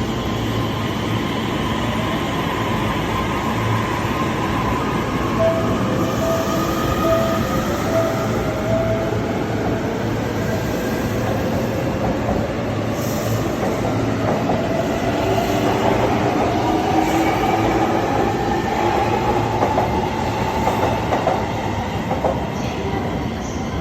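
Joban Line electric train pulling out and gathering speed, its motors whining with a pitch that climbs slowly over the second half, over a steady rumble of wheels on the rails.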